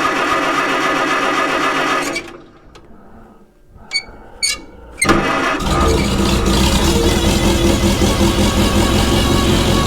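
Old carbureted tractor engine turning over on the electric starter with the choke pulled, cold start. The cranking stops about two seconds in, two short clicks follow, and at about five seconds it cranks again and catches, settling into a steady run. Its hard starting is put down by the owner to ignition timing at the distributor.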